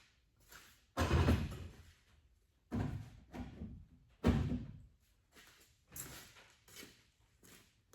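A series of knocks and bangs: three loud ones about a second, nearly three seconds and a little over four seconds in, each dying away briefly, followed by several lighter knocks and clatters.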